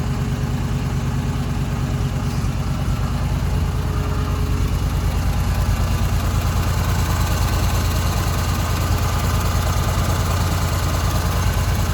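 1958 Mack B-21 fire truck's Hall-Scott 1091 cubic-inch engine idling steadily with a deep, even exhaust pulse, freshly revived after 30 years of sitting. It gets slightly louder after a few seconds.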